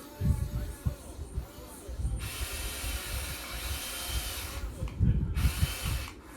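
Electric motors and metal gearing of a Huina 1580 all-metal RC excavator whirring, with irregular low knocks and clunks. A steadier whirring stretch runs through the middle.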